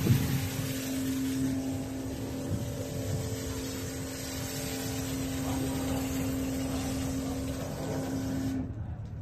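Sany SY60 mini excavator running, a steady whine over a wide hiss, with the hiss and whine cutting off suddenly near the end.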